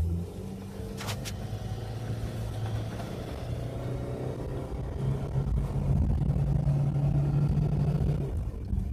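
1996 Chevrolet Cavalier's four-cylinder engine pulling the car along, heard from inside the cabin over tyre and road noise on snow. The engine note climbs slowly and then drops near the end as the transmission shifts up into third gear. Two short clicks about a second in.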